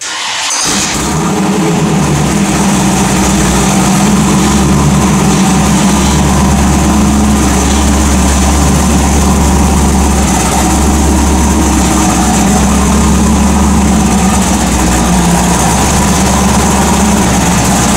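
Pontiac 400 V8 in a 1978 Trans Am, bored and stroked to 455 cubic inches, running at a steady idle. It comes up to full loudness in the first second or two, then holds an even, deep rumble with no revving.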